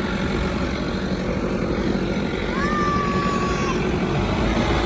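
Wind buffeting the microphone, a heavy uneven rumble. About two and a half seconds in, a single high call rises and holds steady for about a second.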